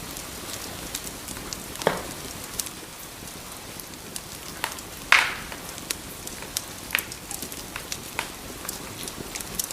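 Wood fire crackling in a fireplace: a steady hiss with scattered pops and snaps, the loudest about two seconds and five seconds in.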